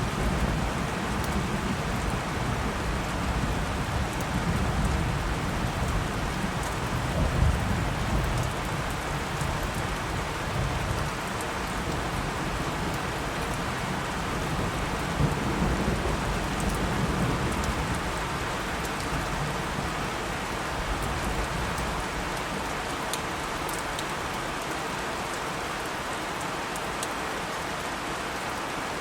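Steady rain falling, with low thunder rumbling through the first half and swelling twice, then fading away about two-thirds of the way in.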